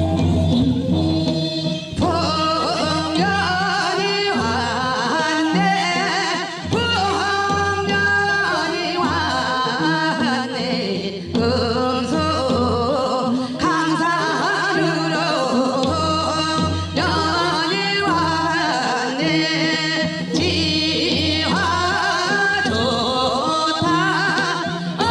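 Korean folk song (minyo) sung in phrases of a few seconds each, over steady instrumental accompaniment.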